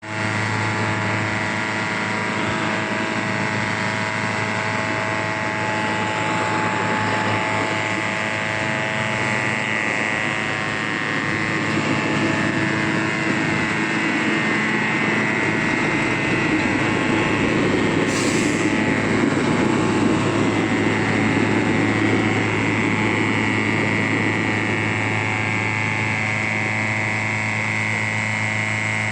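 A heavy truck's engine running steadily with a deep hum, growing a little louder through the middle.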